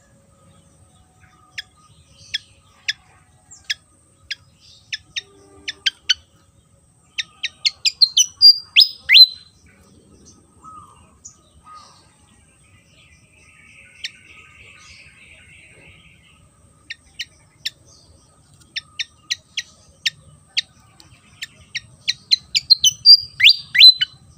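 Fantail (sikatan kipas) singing: two phrases, each a string of short, sharp, high notes that speeds up into a loud twisting flourish. A faint buzzy sound comes between the two phrases.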